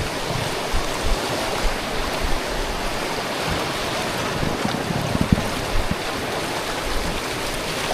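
Rushing river water around a tube raft: a steady wash of noise, with low thumps from wind or splashes on the microphone, the strongest about five seconds in.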